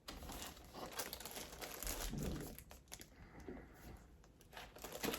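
Faint rustling and a few light clicks of plastic hula hoop segments being handled and pushed together.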